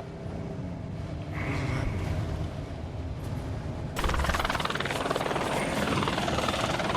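A helicopter running steadily. About four seconds in, the sound jumps abruptly to a louder, noisier mix.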